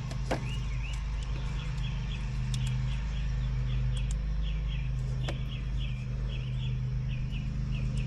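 A steady low engine hum, with short chirps repeating two or three times a second over it and a few light clicks.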